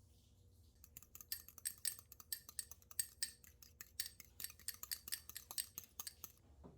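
A utensil clinking rapidly and irregularly against a dish, as in stirring or whisking, starting about a second in and stopping shortly before the end.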